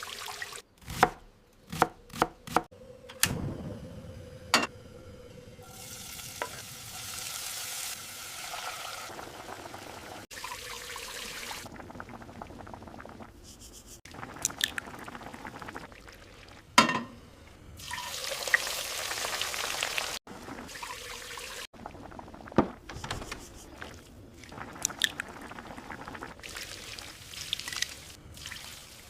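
A run of food-preparation sounds: a quick series of sharp knife chops on a board at the start, then long stretches of frying sizzle and pouring, with stirring and scattered further chops and knocks.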